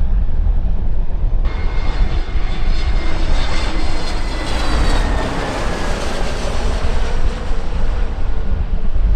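Airliner's engines passing close by, with a whine that falls in pitch as it goes past, starting abruptly and fading near the end. Wind rumbles on the microphone underneath.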